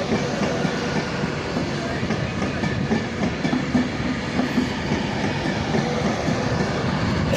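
Class 390 Pendolino electric train pulling out of the station, with a steady running noise from its wheels and motors.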